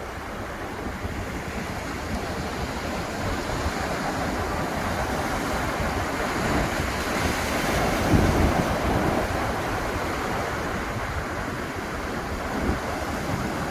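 Ocean surf washing onto the beach, a wave swelling to a crash about eight seconds in and easing off, with wind buffeting the microphone.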